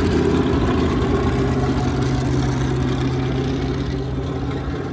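Racing-car engines running at low revs as the cars move off: a loud, steady, deep rumble that slowly fades.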